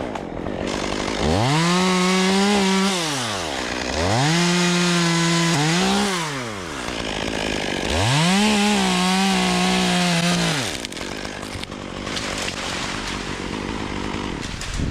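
Two-stroke chainsaw revved up to full throttle three times, each time holding a steady high pitch for a second or two and then winding down, as it cuts through wood. After about eleven seconds it drops back to a quieter idle.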